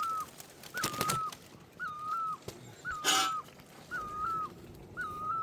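A bird calling over and over, the same short whistled note about once a second. Two brief noisy rustles come about a second and three seconds in.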